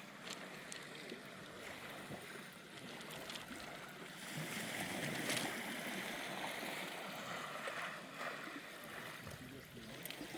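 Small, gentle sea waves washing on the beach, with one swell rising about four seconds in and easing off after a couple of seconds.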